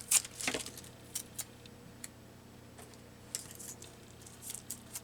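Light clicks, taps and faint rustles of small craft supplies being handled on a desk: a sharp tap right at the start, then scattered lighter clicks.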